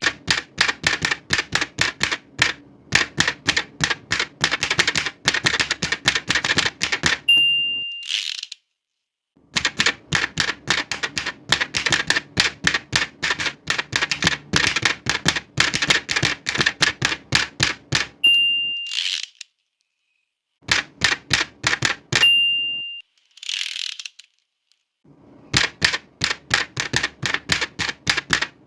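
Old manual typewriter typed on in quick runs of key strikes, several a second. Three times the end-of-line bell dings, followed each time by the swish of the carriage being returned, with short pauses between lines.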